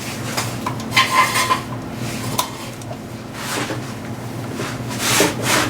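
Metal hand tools clinking and scraping against metal while working a stuck bolt loose: a few sharp clinks, a short ringing scrape about a second in, and more scraping near the end.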